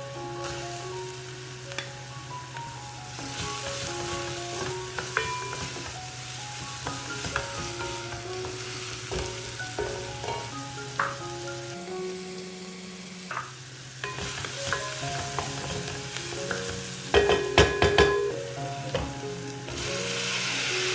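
Food sizzling as it fries in a pan, with a few sharp utensil clinks against the pan about three-quarters of the way through, over soft background music.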